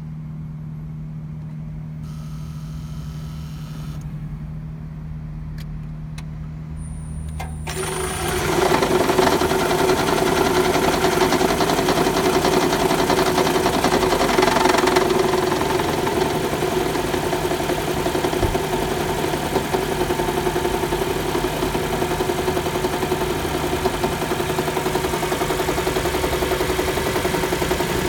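Toyota RAV4 Hybrid: a low steady hum, then about eight seconds in the four-cylinder petrol engine starts cold and runs steadily. The owner hears a knock from around the engine or transmission when it is cold.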